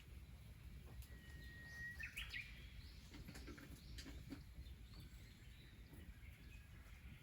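Near silence with a bird calling faintly: one held whistled note about a second in, running straight into a quick burst of higher notes, with a few faint clicks scattered through.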